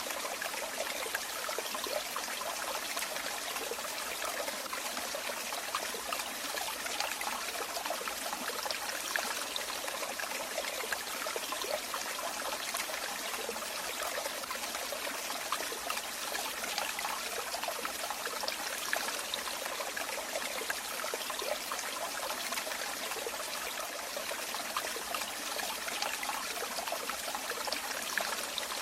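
Running water: a steady trickling, splashing flow.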